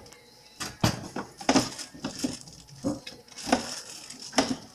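Knocks and clatter of food packages and containers being set on refrigerator shelves, about six separate bumps with some rustling between them.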